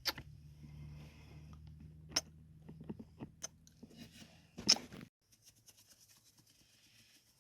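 Close-miked kissing and wet mouth sounds: scattered sharp smacks and clicks with soft crackle between them, the loudest smack a little before five seconds in. Under them a low steady hum cuts off about five seconds in.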